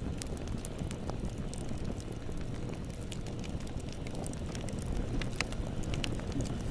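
Bonfire burning: a steady low rumble of flames with scattered sharp crackles and pops, which come more often from about five seconds in.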